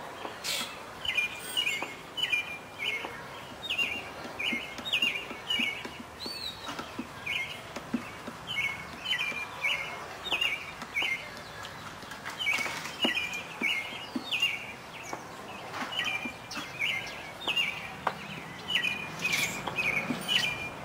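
A bird chirping over and over: short high chirps in quick runs of several at a time, with a few faint clicks and taps in between.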